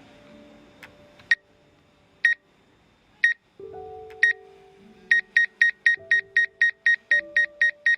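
Warning beeps from a DJI Mavic 2 Pro drone's remote controller: single high beeps about once a second, then quickening to about four a second about five seconds in, over soft music.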